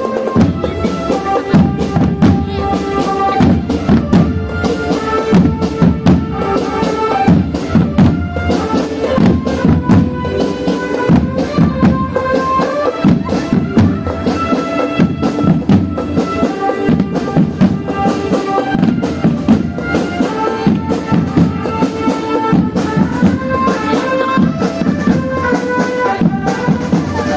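Marching band playing a tune: wind instruments carry a moving melody over continuous drumming.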